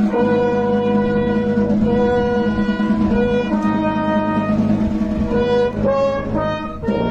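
Wind band of brass and woodwinds playing a melody in held notes over a steady low accompaniment.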